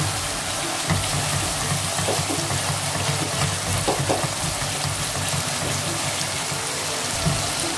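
Spice masala sizzling and bubbling in oil in a steel pan as it is fried down and stirred with a spatula. A steady frying hiss with a few soft strokes of the spatula.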